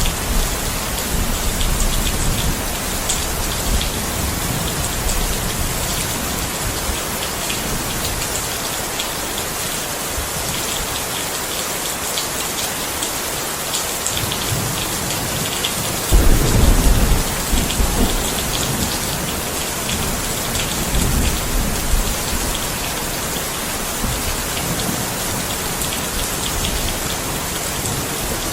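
Steady rain falling, with low rolls of thunder. The loudest roll starts suddenly a little past halfway and rumbles for about two seconds.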